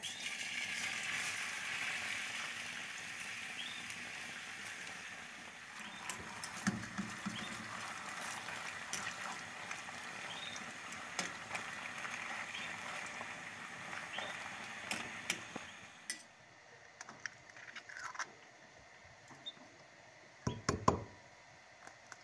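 Thin potato strips sizzling as they deep-fry in hot oil in a steel pan, an even hiss with scattered pops and light clicks, loudest as the strips go in and easing off, that cuts off about three quarters of the way through. Near the end a few sharp knocks as an egg is cracked against a bowl.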